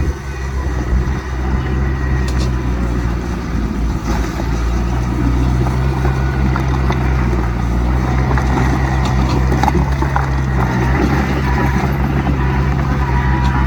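Heavy diesel engine of earthmoving machinery, a bulldozer or dump truck, running steadily with a few faint knocks, growing a little louder about five seconds in.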